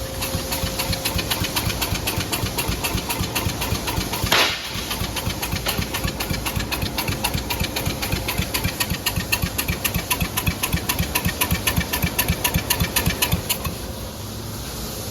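Cub Cadet lawn tractor engine being cranked over by its electric starter, turning over in a steady rhythmic chug without catching, with one brief break about four seconds in. The cranking stops near the end. It does not start because the fuel shutoff was still closed.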